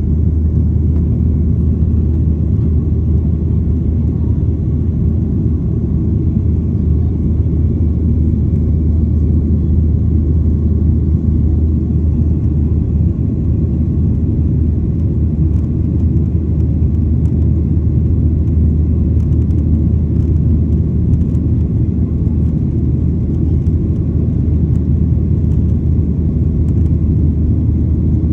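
Steady low engine rumble that holds level without change.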